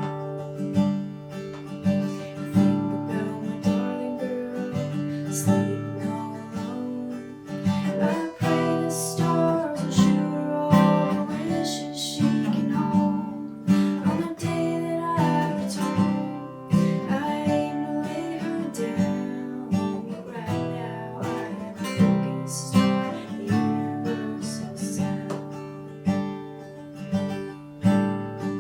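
Acoustic guitar strummed in a steady pattern, playing a country-folk song.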